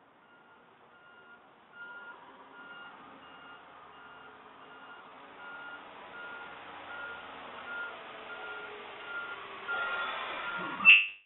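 Garbage truck backing up: its reversing alarm beeps at an even pace over the running engine, both growing louder as the truck comes closer. The sound cuts off suddenly near the end.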